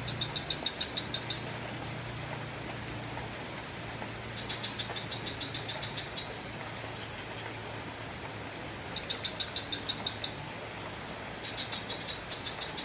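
Steady rain falling. Every four to five seconds a rapid, high-pitched chirping call cuts in: a train of about ten quick pulses lasting roughly a second and a half, heard four times.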